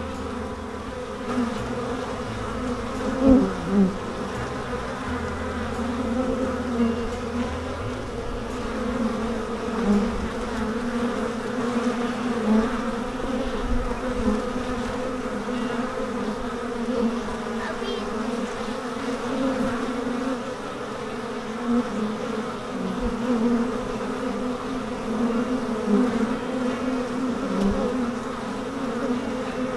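Honey bees buzzing in flight at the entrance of a nuc box. Many bees come and go, making a steady, flickering hum of foragers returning with pollen.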